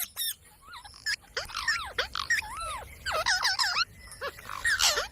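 A parrot calling: a run of short, arched squawks and chirps that come thicker after the first second or so.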